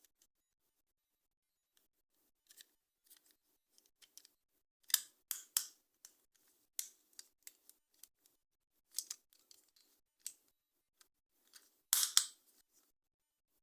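Toy packaging being handled during an unboxing: irregular crisp plastic crackles and clicks, with louder clusters about five seconds in and near the end.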